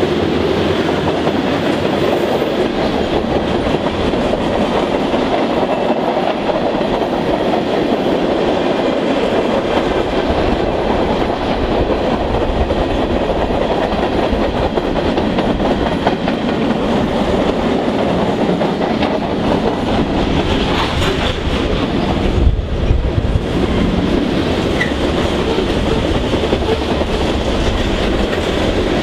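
Freight train of tank cars, covered hoppers and gondolas rolling past: a steady rumble with the clickety-clack of steel wheels on the track. A brief louder low thump about three-quarters of the way through.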